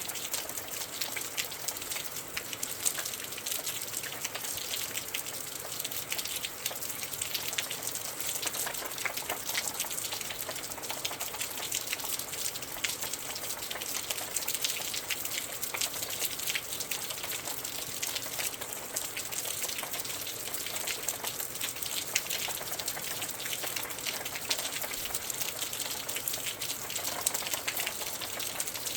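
Steady rain with a dense, constant pattering of drops.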